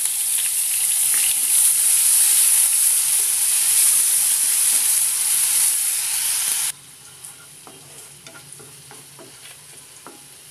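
Onion paste sizzling loudly as it fries in hot oil in a nonstick frying pan, stirred with a wooden spatula. About seven seconds in, the loud sizzle cuts off suddenly, leaving a faint hiss with light taps and scrapes of the spatula.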